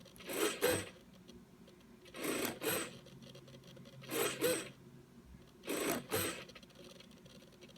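Blue Bird A10S micro servo whirring through its gears in short paired moves, four times about every two seconds, as it is swung off centre and back in a centering test.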